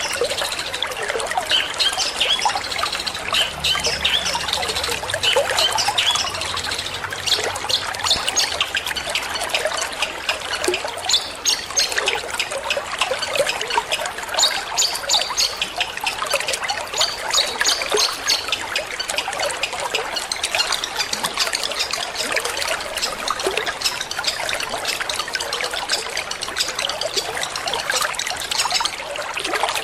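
Water trickling steadily, with a long-tailed shrike singing in quick, sharp high notes over it.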